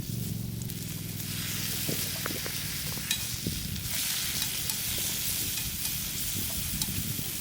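King oyster mushrooms frying in butter on an iron griddle, sizzling. The sizzle grows louder about a second in, with scattered light clicks and taps throughout.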